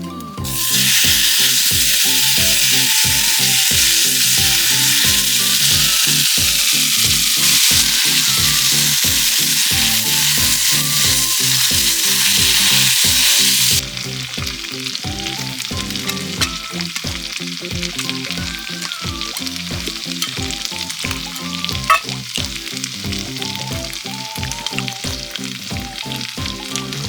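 Food sizzling in a hot pan, a loud, even sizzle that drops abruptly about halfway through to a quieter sizzle, over background music with a steady beat.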